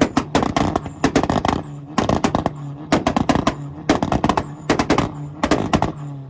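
Volkswagen's engine held on a two-step launch limiter: rapid-fire exhaust pops and bangs come in bursts about once a second over a steady engine drone. They stop at the very end.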